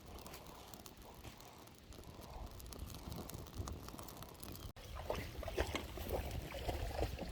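Freshly lit campfire of softwood kindling, split ash and birch bark burning, with faint crackles and pops over a low rumble. It cuts out for an instant just before five seconds in, and after that the crackling is louder and denser.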